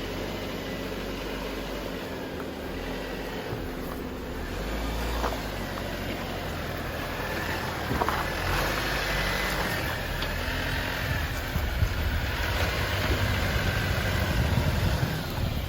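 Off-road Jeep's engine running at low speed as it crawls up a rocky trail section, with a few knocks from the tyres on rock; the engine grows louder in the second half.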